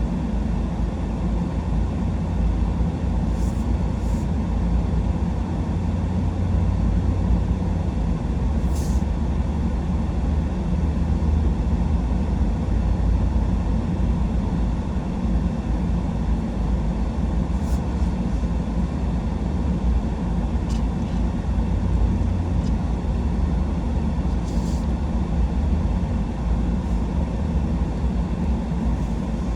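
Pickup truck driving, heard from inside the cab: a steady low rumble of engine and tyres on the road, with a few short faint high ticks scattered through it.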